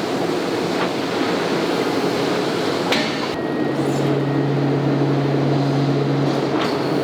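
Factory machinery running steadily with a low hum, and a sharp metallic knock about three seconds in.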